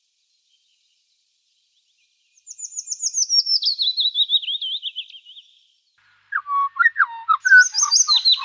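Songbirds singing: after about two seconds of silence, one song of quick notes sliding down in pitch over about three seconds, then from about six seconds in a louder, busier song mixing low whistled notes with high chirps.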